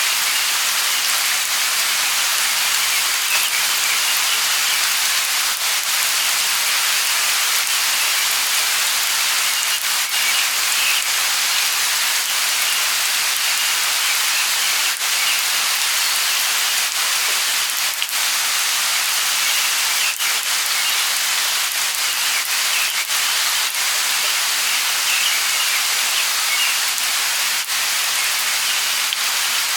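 Light rain falling steadily, a constant hiss with many small drop ticks scattered through it.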